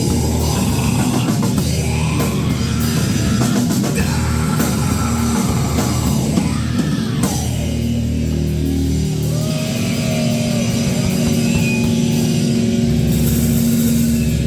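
A rock band playing loudly live, with a drum kit pounding through heavy, dense rock music.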